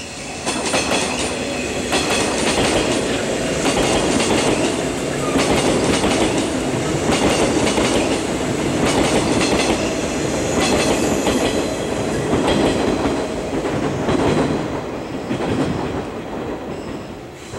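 JR 485-series electric train running past, its wheels clacking over the rail joints in a repeated run of beats over a steady rumble. The sound fades away near the end as the last car goes by.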